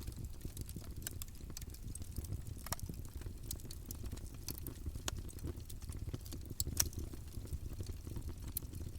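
Campfire burning: a steady low rush of flame with scattered sharp crackles and pops from the wood, one louder pop near the end.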